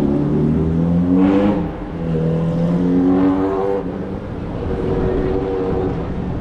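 Motor vehicle engine in street traffic, its pitch rising and easing off in three swells over a low rumble.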